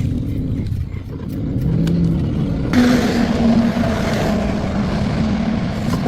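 Old sedan's engine running and being revved, its pitch climbing and a rushing hiss joining about halfway through.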